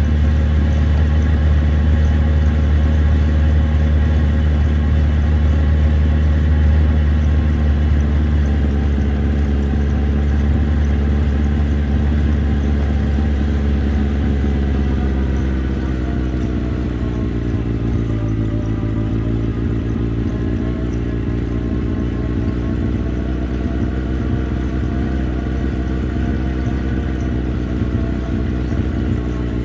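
Motorcycle engine running under way at low, steady revs. About halfway through the revs drop, as when easing off the throttle, then climb slowly again toward the end.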